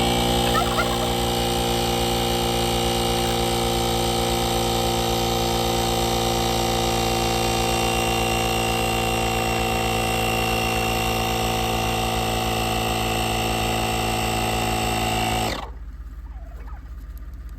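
Everlit portable tire inflator's small electric compressor running steadily at one pitch while pumping up a farm hoop's tire, then shutting off abruptly near the end.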